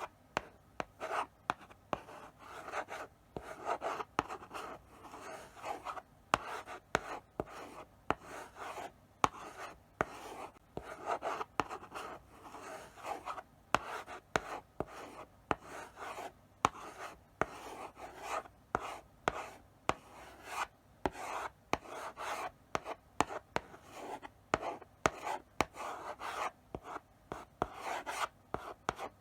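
Chalk writing slowly on a blackboard: short scratchy strokes broken by sharp taps as the chalk meets the board, in an irregular stop-start rhythm with brief pauses between strokes.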